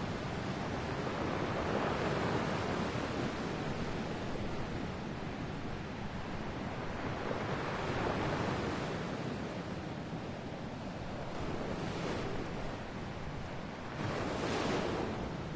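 Ocean waves breaking and washing on a shore in a continuous surf, swelling and easing every few seconds, with a stronger wave near the end.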